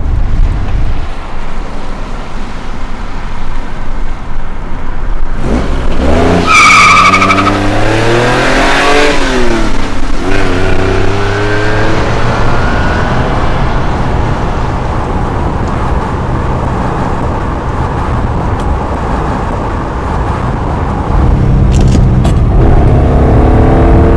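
Citroën SM's Maserati six-cylinder engine running as the car is driven, with a brief high squeal about six seconds in. The engine pitch then rises and falls over a few seconds as it revs, and it picks up again near the end as the car accelerates.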